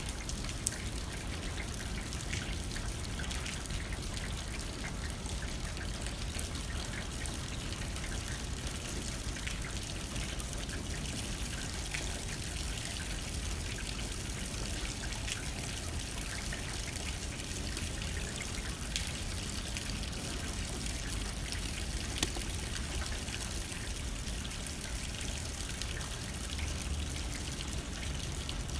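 Rain hitting a window with light wind: a steady patter of drops with scattered sharper ticks, over a low rumble.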